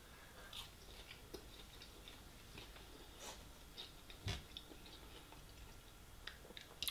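Faint close-up chewing of a battered sweet and sour chicken ball, with small mouth clicks scattered throughout and a soft knock about four seconds in.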